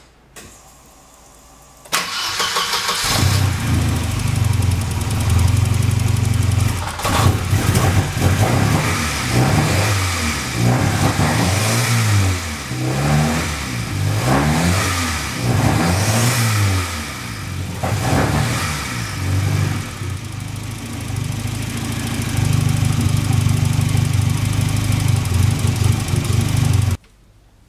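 Volvo 940's B230FT 2.3-litre turbo four-cylinder engine cranks briefly about two seconds in and catches. It is blipped repeatedly in rising and falling revs, then settles to a steady run and is switched off abruptly near the end. It is running on a newly fitted Megasquirt ECU with a Ford wasted-spark coil pack.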